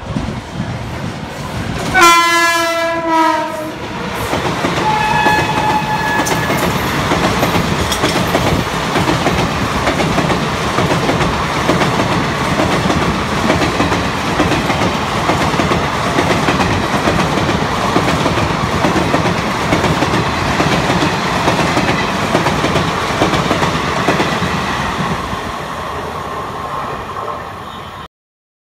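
WAP-5 electric locomotive's horn sounds loudly about two seconds in, a chord of several tones that drops slightly in pitch, followed by a shorter, fainter horn call. Then the express's passenger coaches run past at speed with a steady, loud rush of wheels on the rails, which cuts off abruptly near the end.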